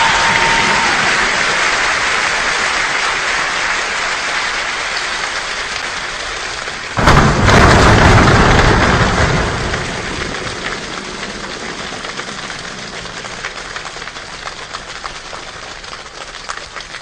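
Heavy rain-like patter that slowly dies down. About seven seconds in there is a sudden, much louder thunder-like burst lasting a couple of seconds, after which the patter thins to scattered separate drops.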